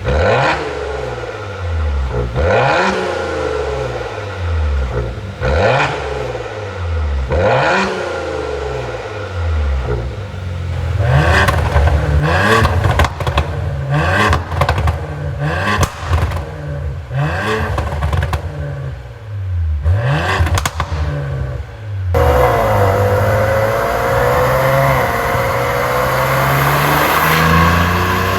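2017 Maserati Levante S twin-turbo V6 exhaust with a pop-and-crackle tune: repeated revs, each falling back with sharp pops and crackles on the overrun. The pops come thickest from about 11 seconds in. From about 22 seconds the engine pulls steadily with a slowly rising note.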